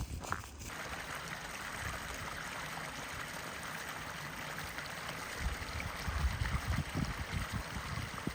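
Running water from a small stream, a steady trickling rush that starts suddenly about half a second in. Low thumps come and go in the second half.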